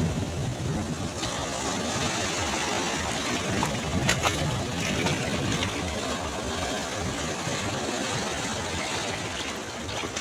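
Ocean surf washing on a beach: a steady rush of breaking waves with a low rumble, and a couple of short crackles about one and four seconds in.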